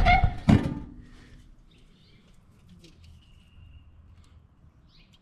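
A man's voice briefly, then a quiet stretch with a few faint bird chirps and one short whistled note.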